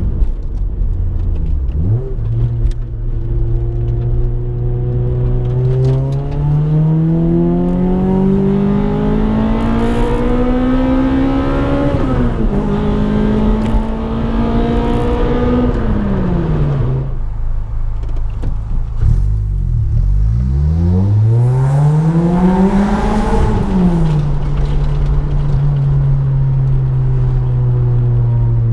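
2006 Toyota Corolla XRS's 1.8-litre 2ZZ-GE four-cylinder, breathing through PPE headers, a refitted catalytic converter and a Magnaflow muffler, accelerating hard: revs climb for about six seconds, dip at a gear change, climb a little more and then fall away. About two-thirds through, passing under an overpass, it revs up again for a few seconds, falls back and settles to a steady cruise. The owner says straightening the muffler fixed the exhaust sound.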